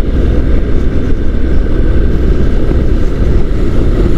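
Steady wind rush and engine noise from a Honda NC750 DCT motorcycle being ridden, picked up by the rider's microphone.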